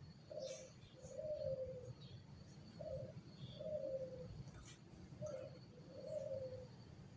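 A dove cooing faintly, three times: each call is a short note followed by a longer, falling coo. Faint high chirps from other birds sound in the background.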